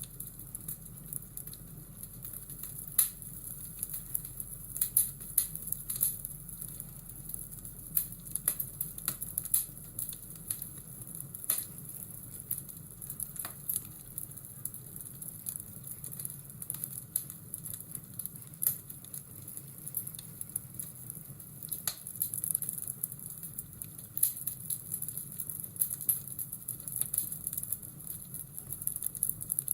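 Fireplace ambience: a wood fire crackling and popping in irregular sharp snaps over a steady hiss and low hum.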